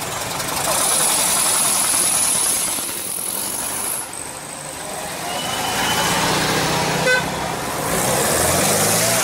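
Vintage Volkswagen Beetles' air-cooled flat-four engines running as the cars pull away one after another, with a brief horn toot about seven seconds in and an engine revving up near the end.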